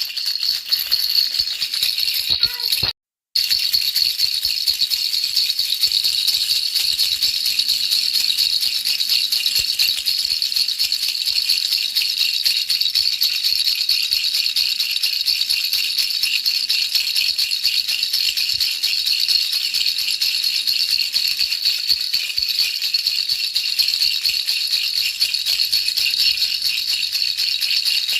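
Baby rattle shaken without pause, a dense, even stream of fine clicking rattle played as white noise for baby sleep. It cuts out completely for a moment about three seconds in, then carries on unchanged.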